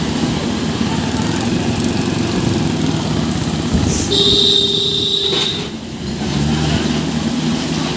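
Tractor engine running steadily. About four seconds in, a steady high-pitched tone sounds for about a second and a half over it.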